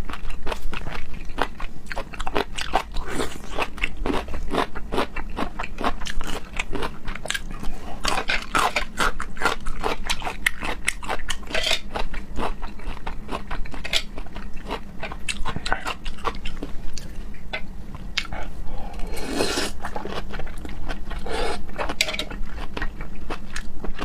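Close-miked eating of raw seafood: continuous biting and chewing, heard as a dense run of small wet clicks and mouth sounds.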